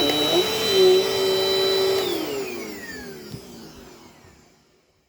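Dirt Devil Dynamite Plus vacuum cleaner running steadily, then switched off about two seconds in: its motor whine falls in pitch and dies away to silence.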